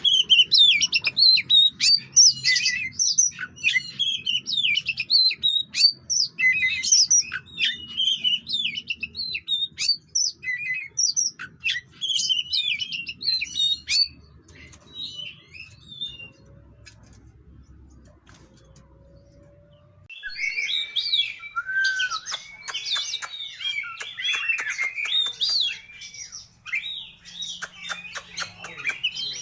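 Oriental magpie-robin singing a rapid, varied song of whistles and chattering phrases. It falls quiet for about six seconds midway, then starts singing again.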